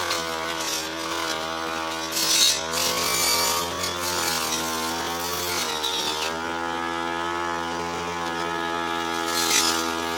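Petrol brush cutter running steadily while cutting tall, thick grass, its engine pitch sagging and recovering under load, with short bursts of hiss as the blade bites into the grass about two seconds in and again near the end.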